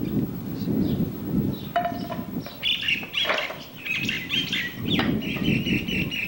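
Small birds chirping: a quick run of short, high calls through the second half, over a low, uneven rumble.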